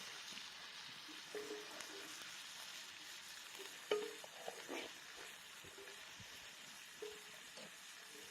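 Wood campfire burning with a steady hiss and scattered crackles and pops, the sharpest about four seconds in.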